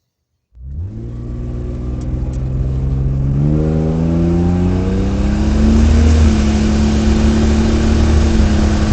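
Car engine accelerating. It starts abruptly about half a second in, its note climbs steadily for several seconds, then holds at a steady pitch near the end.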